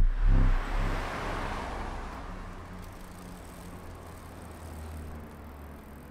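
Road traffic: a car passing, loudest in the first couple of seconds and fading away, over a steady low engine hum.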